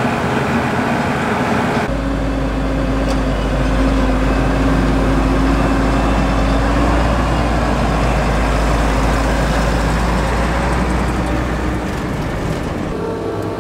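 Diesel engines of large farm machinery (tractors and silage harvesting equipment) running under load, a steady mechanical din. The sound changes abruptly about two seconds in and again near the end, with a deep steady drone and an engine tone in between.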